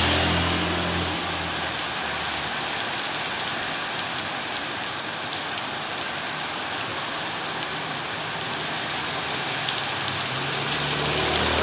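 Steady rain falling on a hard surface, with scattered drop ticks. A low engine-like hum comes in at the start and again near the end.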